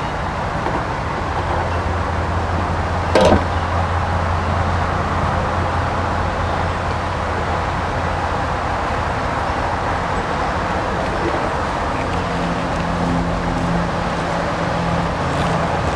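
Steady low hum over outdoor background noise, like a vehicle engine running, with one short sharp sound about three seconds in.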